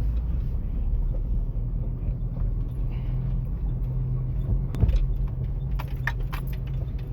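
Motor vehicle engine running steadily at low revs while driving, with a knock about five seconds in and loose rattling clicks near the end.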